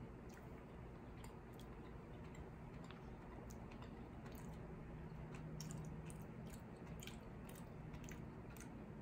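A person faintly chewing a jelly bean, heard as soft, irregular mouth clicks over a low steady room hum.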